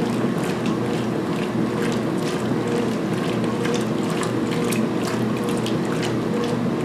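2016 Speed Queen belt-drive top-load washer agitating a load of towels in the main wash: a steady motor and transmission hum, with water sloshing and splashing in the tub.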